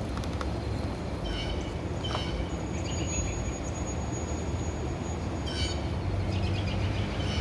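Mack garbage truck's diesel engine running with a steady low rumble, while birds chirp three times.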